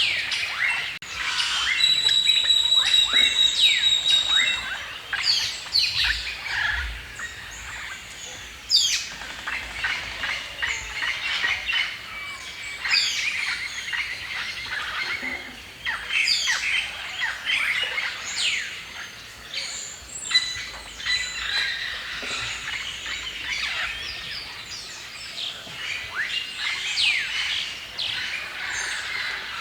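Several songbirds singing and chirping together in a dawn-chorus-like mix of quick rising and falling notes, with one bird holding a steady high whistle about two seconds in.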